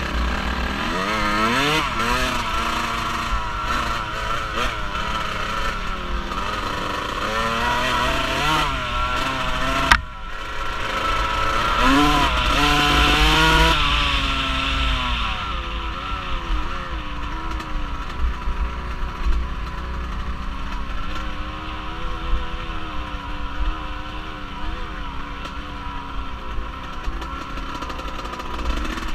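Off-road vehicle engine running under way, its pitch rising and falling as the throttle opens and closes, over a steady low rumble of wind on the microphone. About ten seconds in the engine note briefly drops away, then climbs again to its loudest a few seconds later.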